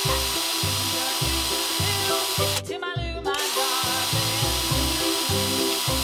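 Cartoon drill sound effect for a truck's hammer attachment breaking up stones: a steady power-drill buzz that breaks off briefly about three seconds in, over background music with a steady bass beat.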